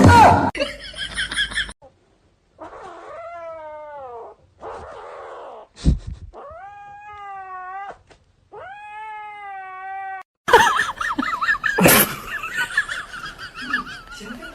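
Domestic cat yowling in three long, drawn-out meows with pauses between them, the first falling in pitch and the last two held. A louder, busier stretch follows, with a sharp knock.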